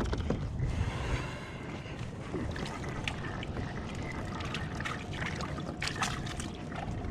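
Wind rumbling on the microphone and water sloshing against a Hobie Outback fishing kayak's hull, with scattered small knocks and clicks of gear being handled aboard.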